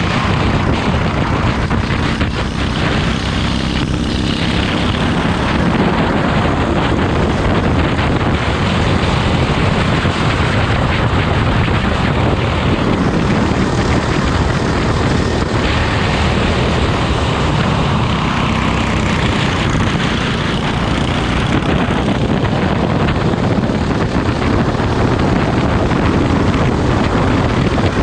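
Racing kart engine running continuously at racing speed, loud and unbroken.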